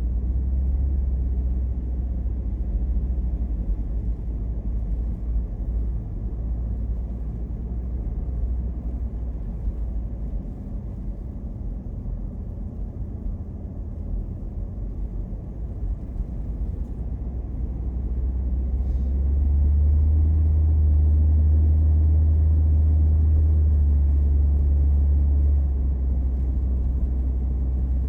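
Car driving, a steady low rumble of engine and road noise that swells for several seconds about two-thirds of the way through, then settles back.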